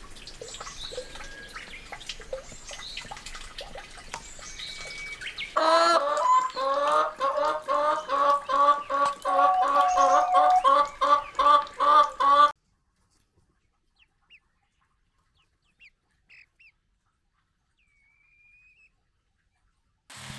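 A fowl-like bird giving loud, repeated clucking calls, about two a second for some seven seconds, that stop suddenly. Before them there is a faint hiss with small bird chirps, and after them near silence with a few faint chirps.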